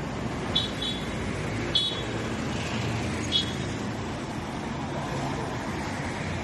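Steady street traffic noise, with a few short high-pitched chirps in the first half.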